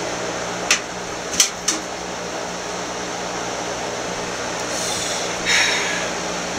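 Steady background hiss with a low hum, broken by three sharp clicks in the first two seconds and a short rustling noise near the end.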